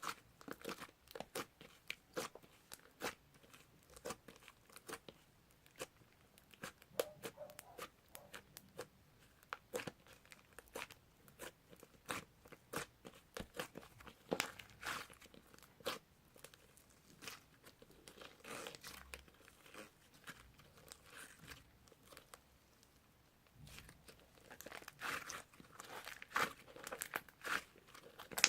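Slime being squeezed, poked and stretched by hand: a dense, irregular run of sharp clicks and small crackling pops, louder and thicker in the last few seconds.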